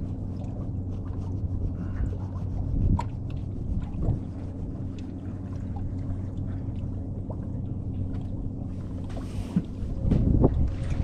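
A boat motor running with a steady low hum, with a few light clicks and knocks. Wind buffets the microphone near the end.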